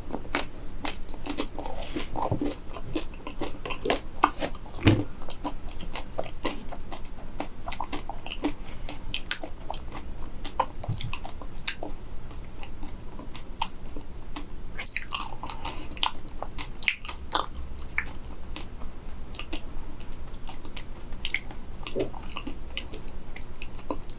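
Someone biting into and chewing a crisp-shelled, matcha-flavoured frozen banana, with many irregular sharp crunches.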